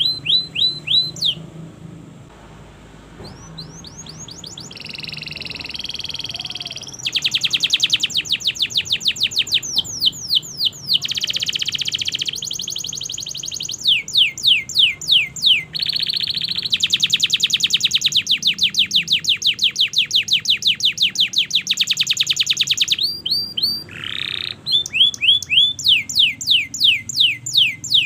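Domestic canary singing a long continuous song of fast trills: runs of rapidly repeated down-sweeping notes alternating with buzzy rolling tours. The song softens briefly about two seconds in, then picks up again.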